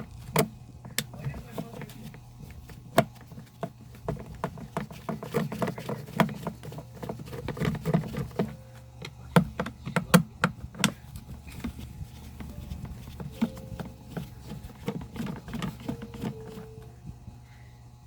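Irregular clicks and knocks of a tool against plastic casing as a small portable speaker is opened up, over a steady low hum.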